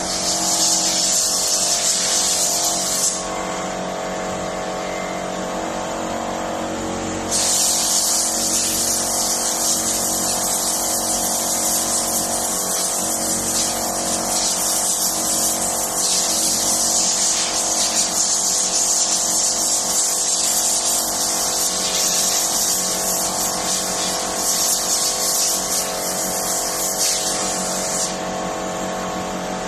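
A motor-driven cleaning sprayer: a motor runs steadily while a loud, high spray hiss is switched on for about the first three seconds, stops, then comes back about seven seconds in and runs until shortly before the end.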